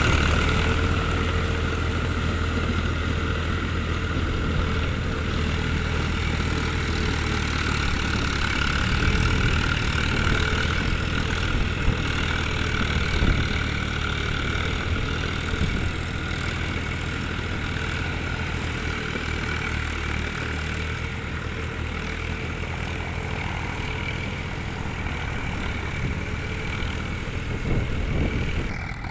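Eicher 380 tractor's diesel engine running steadily, with a couple of sharp knocks about twelve and thirteen seconds in.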